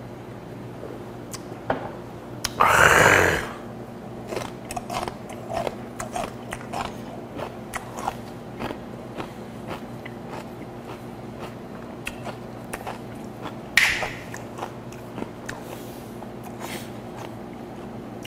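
A man chewing aged napa-cabbage kimchi (mukeunji), with many small crisp crunches of the crunchy lower stem part. About three seconds in there is one loud breathy exhale after a swallow of beer, and a shorter breath near fourteen seconds.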